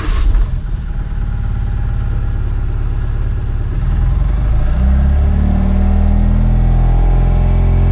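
Mahindra Supro Profit Truck Mini's 909 cc engine running just after starting, first idling, then revved up about four seconds in and held there, easing back near the end. The owner calls the sound normal for this truck.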